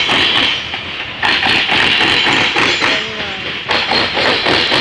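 Loaded grain cars of a freight train rolling past, their wheels clicking and clacking over rail joints over a steady rolling hiss.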